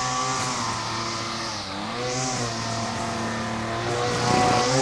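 Small lawn mower engine running steadily at speed, with a hiss over the engine note. Its pitch sags briefly and recovers about two seconds in.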